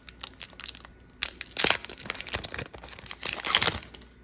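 Foil Pokémon booster pack wrapper crinkling and being torn open, in two louder spells of crackling.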